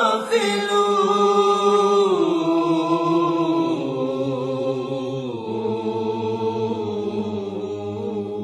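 Unaccompanied chanting voice holding a long drawn-out closing note that steps down in pitch twice before it begins to fade.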